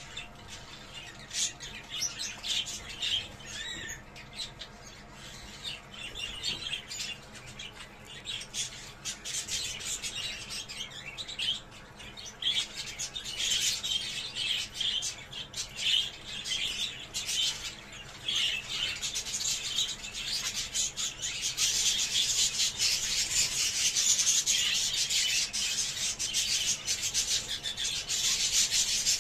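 Budgerigars chattering and warbling: a dense stream of quick chirps, squeaks and clicks that grows fuller and louder in the last third.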